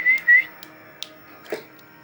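Whistling: two short, wavering whistled notes at the start, then a sharp click about a second in and a soft knock soon after.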